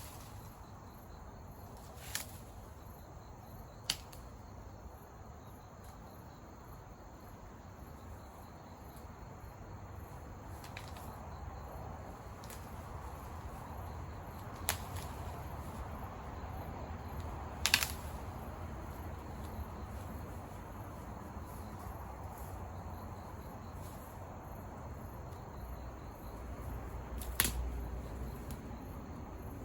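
Insects chirping steadily in the background, with a few sharp, isolated clicks or pops scattered through.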